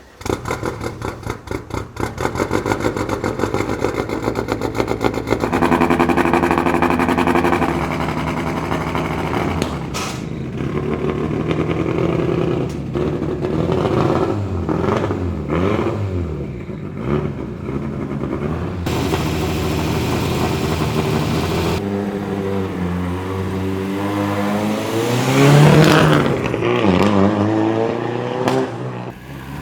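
Lancia Delta prototype (400 hp) engine catching with a fast chatter of firing pulses, then revved over and over, its pitch climbing and falling, with the strongest rev sweeps near the end.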